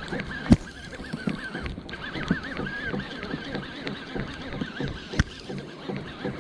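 Kayak on the water with a busy patter of small knocks and splashes, two sharp knocks about half a second and five seconds in, and a faint wavering whine throughout.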